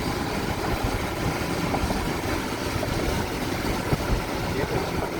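Steady road noise of a car driving: low engine rumble and a constant hiss of tyres and air.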